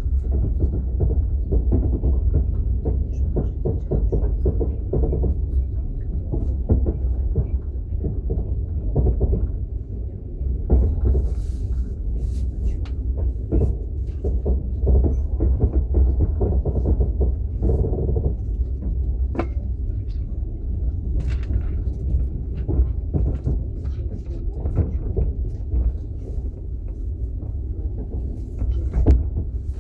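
Interior of a moving passenger train's platzkart sleeper carriage: a steady low rumble from the wheels and running gear, with frequent irregular rattles and knocks.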